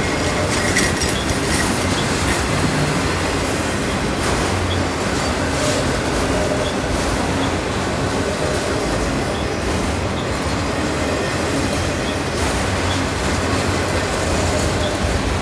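Freight train of autorack cars rolling past at close range: steady noise of steel wheels running on the rails, with a few faint short ticks scattered through it.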